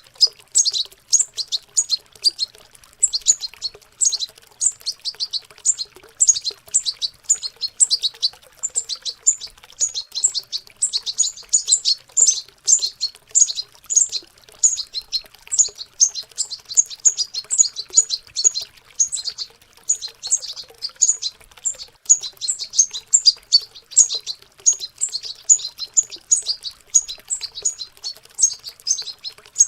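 Young European goldfinches twittering: a dense, unbroken run of quick high chirps, the babbling practice song of juvenile birds.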